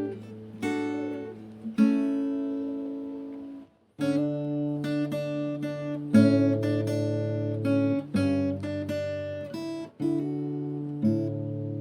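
Background music: an acoustic guitar playing strummed chords. It stops briefly just before four seconds in, then starts again.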